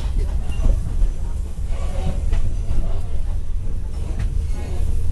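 Passenger train running, heard from inside a carriage: a steady low rumble of the wheels and running gear, with scattered clicks as the wheels pass over rail joints.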